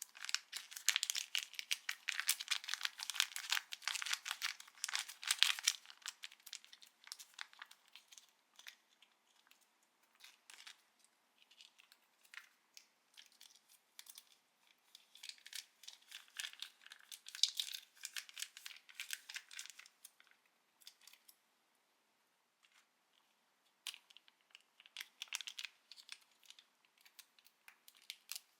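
Plastic instant-food packaging crinkling and being torn open, in three bouts of dense crackling: the longest and loudest at the start, one in the middle and a shorter one near the end, with quieter gaps of scattered crackles between them.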